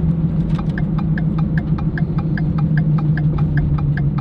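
Pickup truck's turn-signal flasher clicking fast, about five clicks a second from about half a second in, over the steady drone of the engine inside the cab. This is hyper flash, the too-fast blink of a turn-signal circuit with a fault that is still not fixed.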